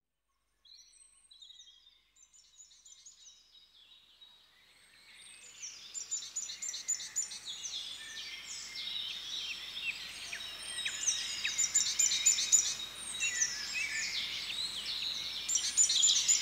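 Birds chirping and singing in dense overlapping calls, many of them quick downward-sweeping notes. They fade in from very faint and grow clearly louder after about five seconds.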